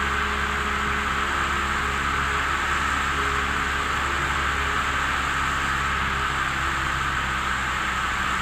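Single-engine light aircraft's engine and propeller droning steadily in flight: a 1976 Cessna 172M's four-cylinder Lycoming O-320 with its propeller, holding an even pitch and level.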